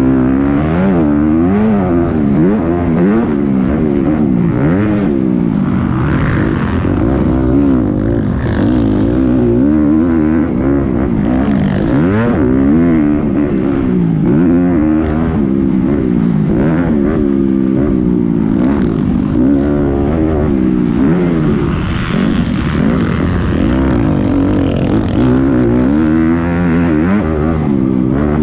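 Several motocross dirt bikes racing, their engines revving up and dropping back over and over as they accelerate, shift and brake, with overlapping pitches from more than one bike.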